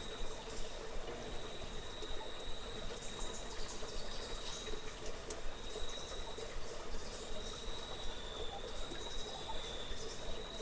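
A steady, high-pitched insect trill that wavers slightly, over an even low background hiss, with brief faint buzzing patches high above it.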